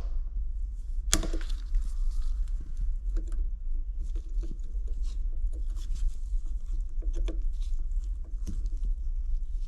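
Scattered small clicks and light knocks of metal engine parts and hand tools being handled during an engine teardown, with one sharp knock about a second in, over a steady low hum.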